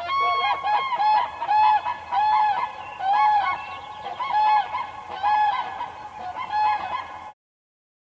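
Geese honking, a rapid run of repeated nasal calls, about one or two a second, that cuts off suddenly near the end.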